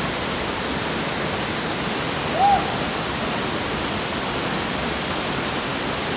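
Steady roar of a large waterfall running in heavy flood, swollen with rain to far more water than usual. About two and a half seconds in comes one brief rising-and-falling call.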